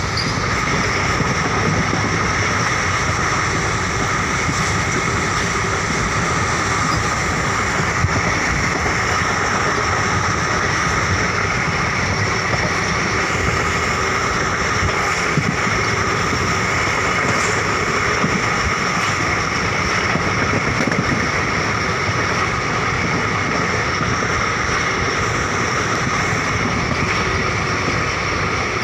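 A passenger train running on the track, heard from on board: a steady rumble and hiss of the wheels on the rails. Two brief clicks stand out, one about a quarter of the way in and one about halfway.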